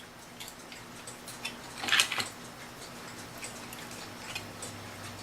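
Light metallic clicks and scrapes of clock movement parts, a spring and its gear, being worked along their shaft; they stick because the shaft is dry and a little rusty. The loudest rattle comes about two seconds in.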